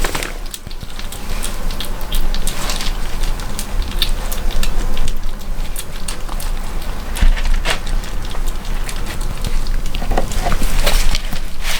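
Kittens licking and chewing close to the microphone: rapid, irregular clicking and crackling with no steady rhythm.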